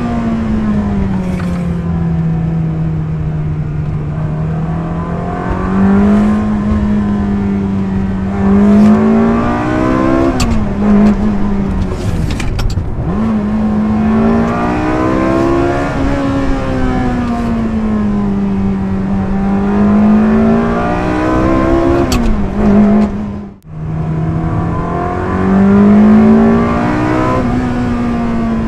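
2002 Ferrari 360 Spider's 3.6-litre V8 running under way, its pitch rising under throttle and dropping back again and again as the car is driven. The sound cuts out briefly and sharply about 23 seconds in.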